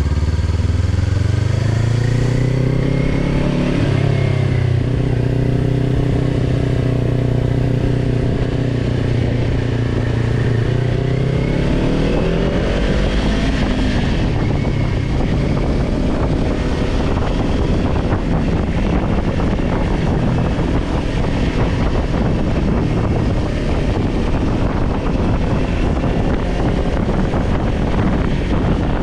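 Kawasaki Ninja 400 parallel-twin engine pulling away and rising in pitch, holding a steady pitch, then rising again about twelve seconds in. From about halfway through, wind noise on the microphone at speed mostly covers the engine.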